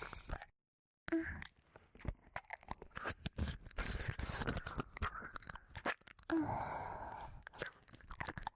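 Wet licking and mouth sounds close to a binaural dummy-head ear microphone: irregular clicks, smacks and slurps that come thick and fast. There is a brief dead-silent gap about half a second in.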